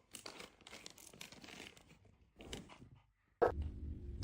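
Soft, scattered crinkling and tearing of gift-wrapping materials, paper and plastic tape. After a short break, a louder low hum starts near the end.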